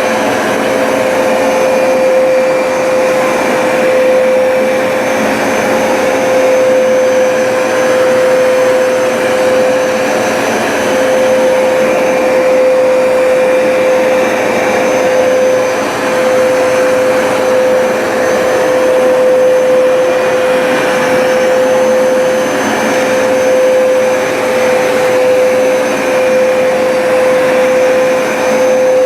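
Hoover SmartWash automatic carpet cleaner running in dry-only mode, its suction motor pulling water back up out of the rug with no spraying. A loud, steady drone with a fixed hum, its level wavering slightly.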